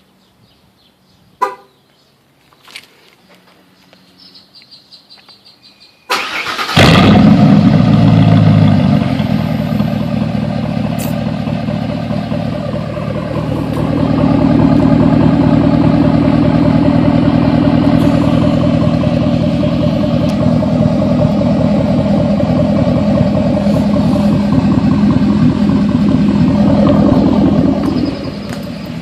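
Ford F-150's 5.4-litre V8 with a 3-inch straight-pipe exhaust (mufflers removed, catalytic converters kept) starting up: a click and faint ticking, then a short crank about six seconds in. The engine catches with a loud flare and settles into a loud, steady run, grows louder about halfway through, and drops back near the end.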